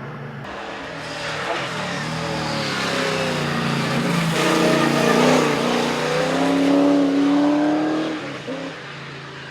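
Holden Torana SLR 5000's V8 engine under hard acceleration, revs rising and falling through gear changes. It grows louder, peaks, then fades near the end.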